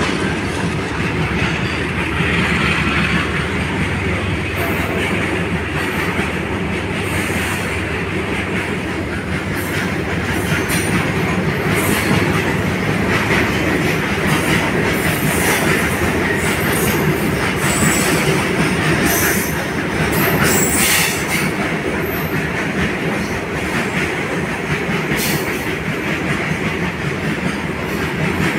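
Covered goods wagons of a freight train rolling past on the rails with a steady, dense running noise. Short high-pitched wheel squeals come and go through the middle.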